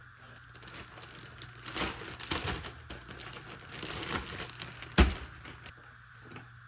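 Plastic bag crinkling and rustling as raw chicken is handled into it, with one sharp knock about five seconds in.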